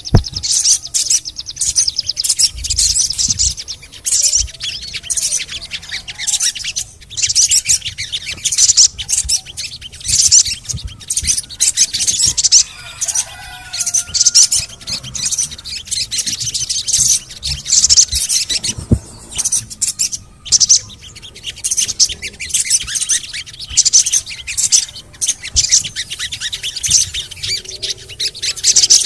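Sogon songbird singing: rapid high-pitched chirps and twittering trills in quick bursts, with short pauses between phrases.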